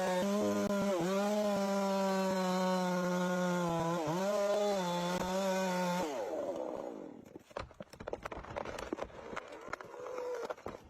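Chainsaw running at full throttle, its pitch dipping briefly twice as it bites into the wood, then winding down about six seconds in. Scattered clicks and cracks follow.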